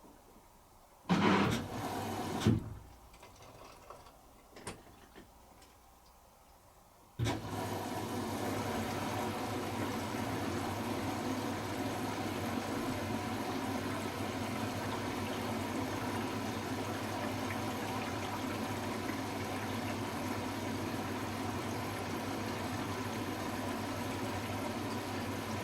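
Hoover H-Wash 300 Plus washing machine: two short knocks, then about seven seconds in water starts rushing through the machine with a steady hum and hiss during the rinse cycle.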